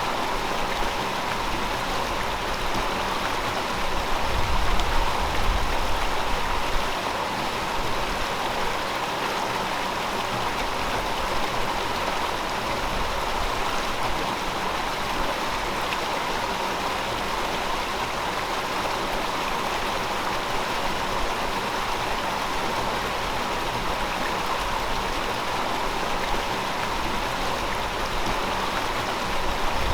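River water flowing steadily, a continuous rushing of water over stones, with a low rumble swelling briefly about four seconds in.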